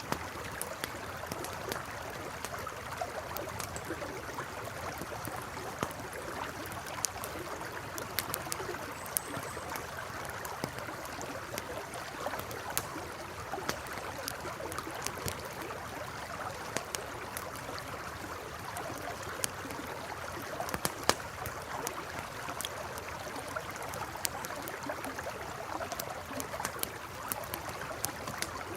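Campfire crackling with irregular sharp pops, over the steady rush of a flowing river.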